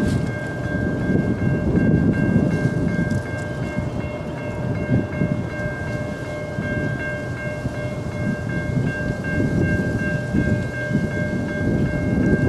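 A passenger train rumbling past a grade crossing, with the crossing's warning bell giving a steady high ringing over the train noise.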